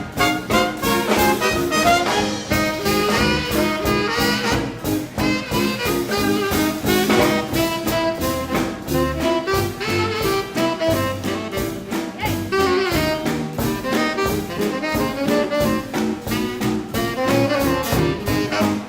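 Live swing band playing an instrumental passage with no vocal: horns, led by saxophone and brass, over a steady swing beat.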